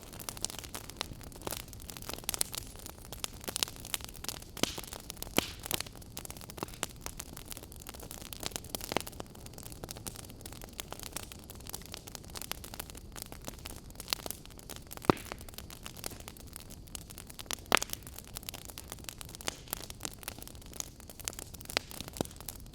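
Wood fire crackling in a fireplace: irregular sharp pops and snaps over a steady soft hiss, with two louder pops about two-thirds of the way through.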